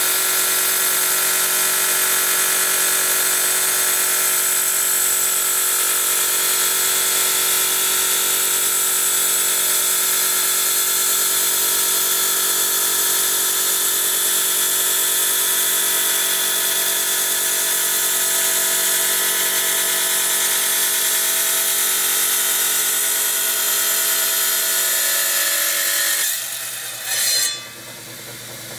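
Wet tile saw running with a steady high motor whine as its freshly pinged diamond blade grinds through hard jasper. Near the end the sound drops away sharply, with one short loud burst, leaving a quieter hiss.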